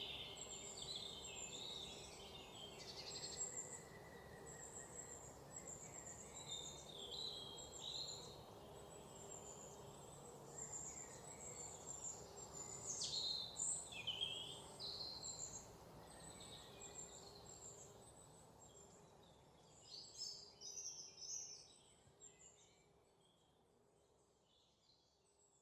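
Birds chirping and calling, many short notes and quick sweeping calls overlapping over a faint steady outdoor background. The whole ambience fades out over the last few seconds.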